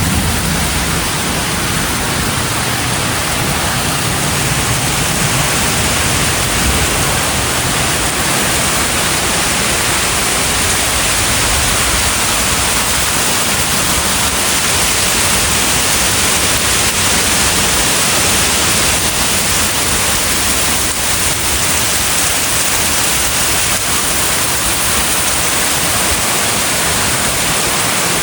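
Heavy thunderstorm downpour: rain pouring steadily as a dense, even hiss. A low rumble sits under it for the first several seconds.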